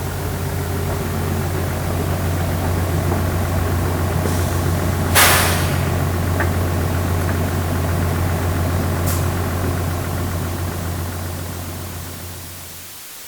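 Bus engine idling steadily, with a short, sharp hiss about five seconds in and a faint click near nine seconds; the engine then winds down and stops near the end.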